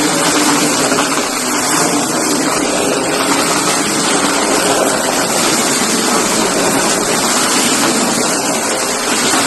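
Shark vacuum cleaner running steadily: a continuous rush of air with a constant motor hum underneath.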